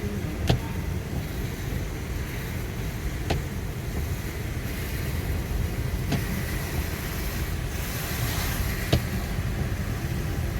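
Steady road noise of a car driving, heard from inside the cabin, with a short sharp click about every three seconds, four in all.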